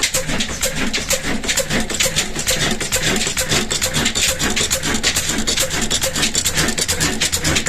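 Old 18 hp diesel engine running at a steady speed, with an even, rapid beat of sharp strokes, several a second.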